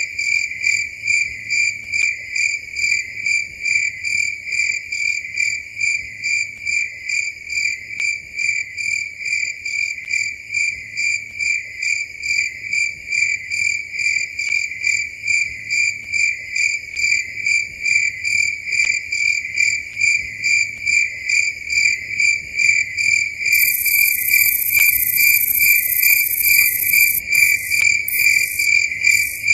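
Crickets chirping in a steady, even rhythm of high-pitched pulses, about two a second. About three-quarters of the way through, a higher hiss joins and then breaks up near the end.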